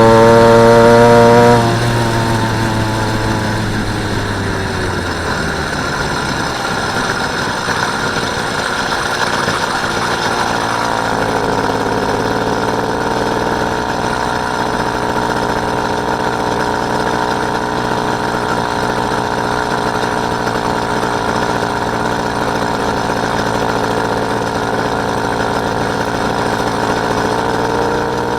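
Small engine of a motorised bike running at high revs for the first second or so, then the revs drop away over a few seconds and it settles into a steady, lower run.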